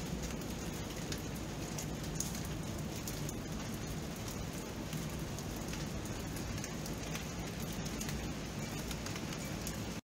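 Steady rain, an even hiss with many small drops ticking through it. The sound cuts out completely for a moment at the very end.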